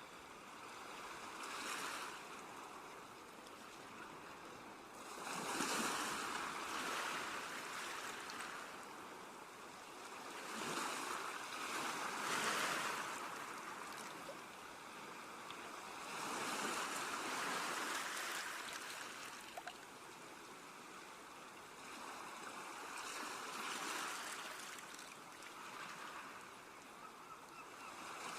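Sea waves washing onto a shore, each wave swelling and fading away in slow succession every few seconds.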